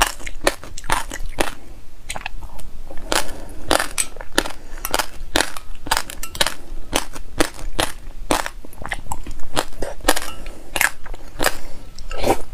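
Close-miked crunching and chewing of raw white sesame seeds with passionfruit pulp and seeds: a dense run of crackling crunches, several a second.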